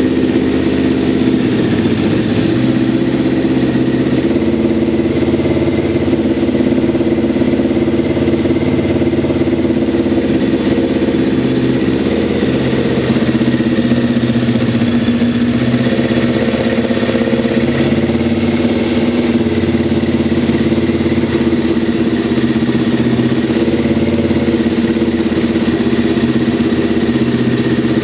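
Kawasaki ZZR1100 C's inline-four engine idling steadily, running on its own after a hard start following long storage.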